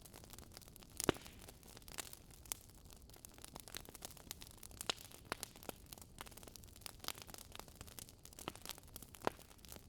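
Wood fire crackling in a fireplace: irregular sharp pops and snaps from burning logs over a soft steady hiss, the loudest pops about a second in and near the end.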